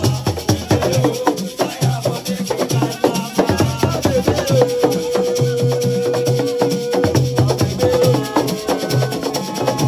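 Assiko percussion music: fast, dense shaker and drum strokes over repeated deep drum beats, with one long held note about halfway through.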